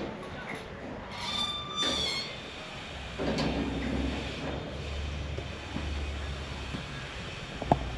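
A motor vehicle running past on a street, a low rumble that starts about three seconds in, preceded by a brief high-pitched squeal.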